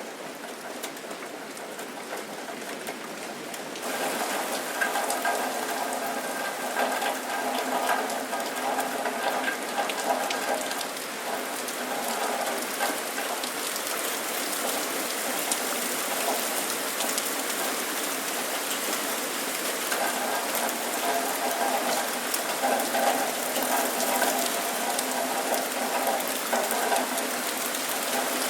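Steady rain falling, a dense patter of drops that gets louder about four seconds in. A humming tone comes and goes behind it.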